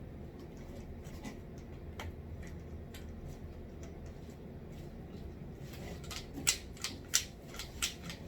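Scattered light clicks and rustles of vacuum parts and packaging being handled, becoming sharper and louder from about six seconds in, over a steady low hum.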